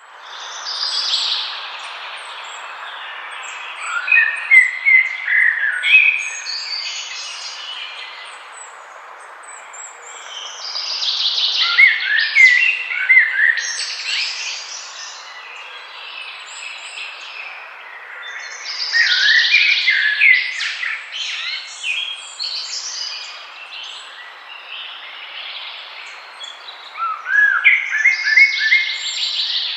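Songbirds singing in bouts that recur about every eight seconds, each a burst of quick chirps and sliding notes, over a steady background hiss.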